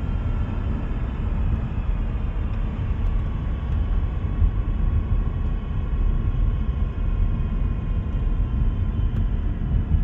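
Car running at road speed: a steady low road and drivetrain rumble with a faint whine that slowly falls in pitch. This is the noise fault of the M32 six-speed manual gearbox.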